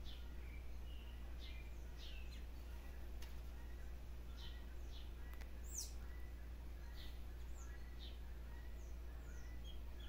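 Small birds calling: short, sharp, downward-sliding chirps scattered irregularly, several a second at times, over a steady low background rumble.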